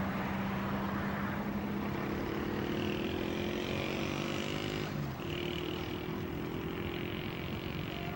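Diesel locomotive engine running, with a steady hum whose pitch rises over a couple of seconds, breaks off briefly about five seconds in, then holds steady.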